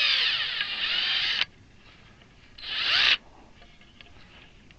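Handheld power drill running in two bursts with its pitch bending as the trigger is worked: the first cuts off about a second and a half in, a shorter one comes near the three-second mark.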